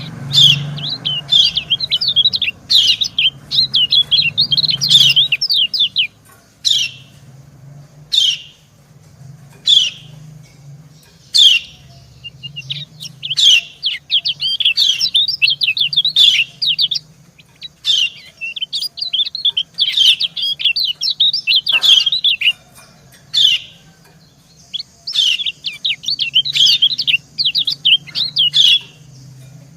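Kecial kuning white-eyes calling back and forth: the female's short 'ciak' call notes, one every second or two, alternating with long runs of rapid twittering chips lasting several seconds, such as the answering male's song. A steady low hum runs underneath.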